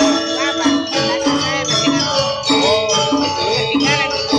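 Balinese gong kebyar gamelan playing: bronze metallophones and gongs struck in a fast, steady rhythm, their ringing metallic tones overlapping.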